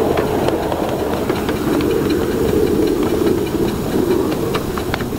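Steam hissing steadily from a 7½-inch gauge live-steam model of a Pennsylvania Railroad K4 locomotive, with scattered light clicks.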